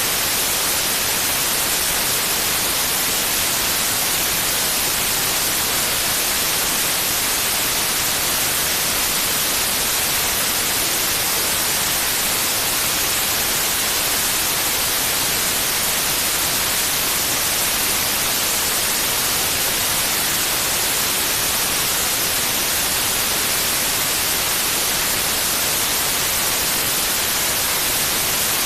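Steady white noise: an even, unchanging hiss, brightest in the high frequencies, played as a sleep aid for a baby.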